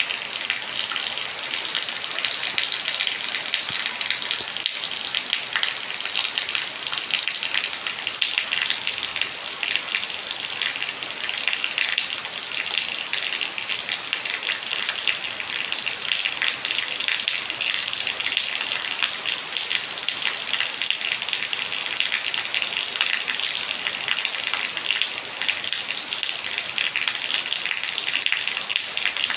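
Steady rain falling on wet concrete steps, a constant hiss of many small drop impacts, with a thin stream of runoff water splashing onto the top step.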